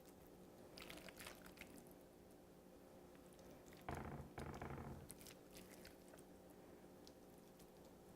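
Mostly near silence, with faint light clicks and then a soft, brief squishing about four seconds in as the moist chicken filling and pizza dough are handled.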